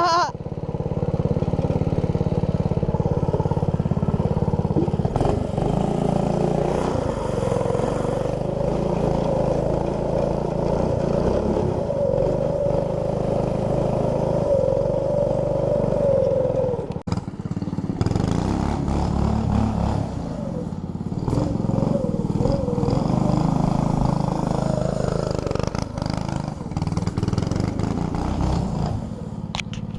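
212cc single-cylinder four-stroke engine running through an aftermarket exhaust, its revs rising and falling as the machine is ridden. The sound drops out abruptly about halfway through, then resumes.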